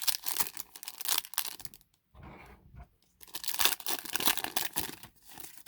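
Foil wrapper of a Pokémon trading-card booster pack crinkling and being torn open, in two spells of rapid crackling with a short pause between.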